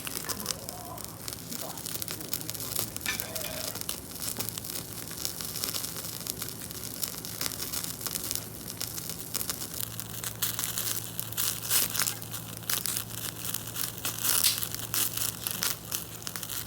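Steak sizzling over a wood fire, the fat spattering in dense irregular crackles and pops that thicken about ten seconds in.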